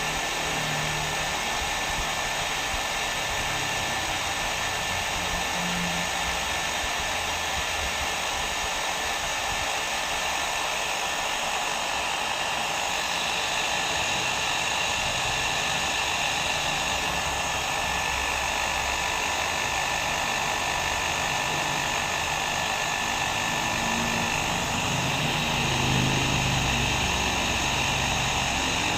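Hair dryer blowing steadily: an even rush of air with a faint motor whine in it, used as continuous white noise.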